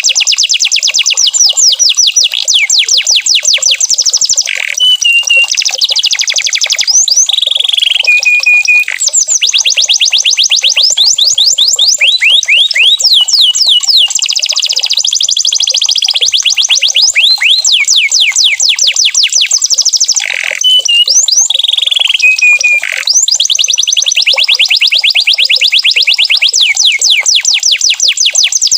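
Domestic canary singing: long, fast trills of quickly repeated sweeping notes, broken twice by short, steady, held whistles, once several seconds in and again about two-thirds of the way through.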